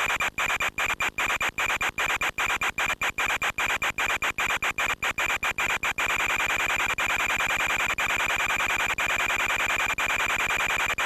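Steady hiss with a constant high whine from the X8 RC aircraft's in-flight audio, broken by many brief dropouts over the first six seconds and only a few after that.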